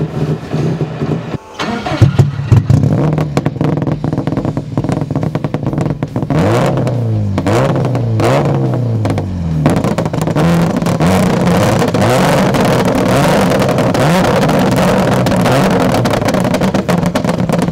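Prodrive-built 2.0-litre turbocharged Subaru Impreza rally car engine running, with a loud surge of revs about two seconds in. It is blipped about three times a few seconds later, each rev rising and falling, then runs steadily at a raised idle.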